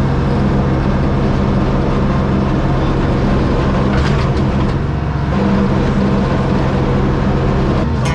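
Old diesel engine of a 1978 Hein-Werner excavator running steadily.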